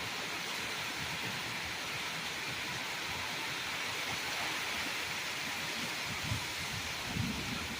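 Heavy rain falling in a steady hiss, with a couple of brief low bumps near the end.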